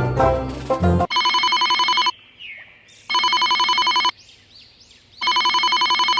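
Banjo music stops about a second in, then an electronic telephone ring sounds three times, each ring a one-second fast trill with about a second between rings. Faint rising chirps fill the gaps.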